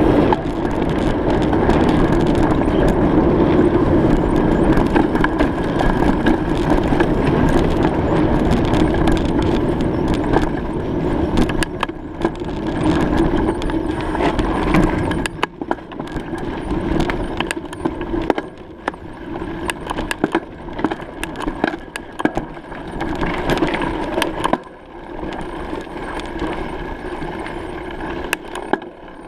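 Bicycle being ridden: a steady rolling rumble with many small rattles and clicks. About halfway through the rumble drops and turns choppier, with the rattling more to the fore.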